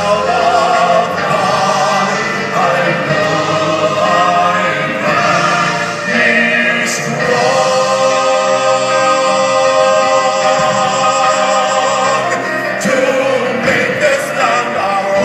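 Live gospel-style song with singing over instrumental accompaniment, including a long held note in the middle.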